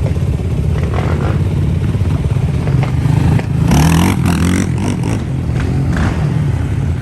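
Off-road motorcycle and quad engines running, one revving up about three and a half seconds in and then dropping back.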